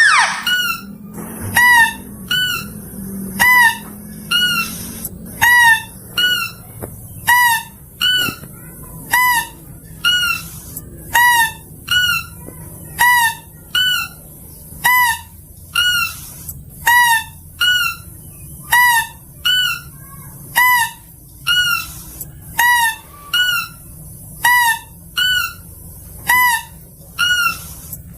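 Mouse-deer (kancil) call used as a lure: short, squeaky, hooked notes repeating about once a second, alternating louder and softer. A louder sweeping note comes at the very start.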